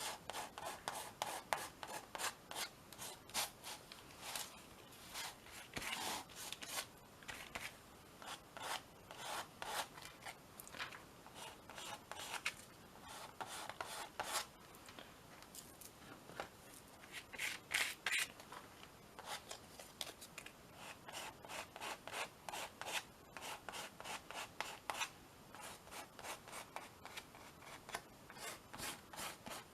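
Paintbrush rubbing gesso onto a canvas in many short, quick strokes.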